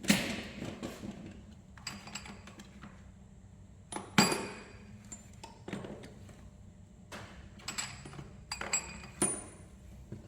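Metal hand tools clinking and tapping: a dozen or so irregular sharp clinks, some with a brief high ring, the loudest right at the start and about four seconds in.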